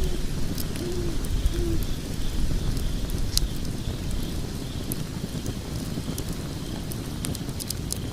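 Wood logs burning in a fireplace: a steady low rumble of the flames with scattered sharp crackles and pops, one louder pop about three seconds in.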